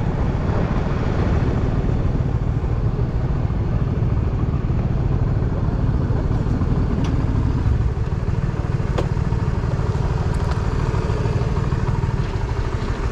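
Steady low rumble of a car engine and road noise heard from inside the moving car's cabin, with a few faint clicks about 7, 9 and 10.5 seconds in.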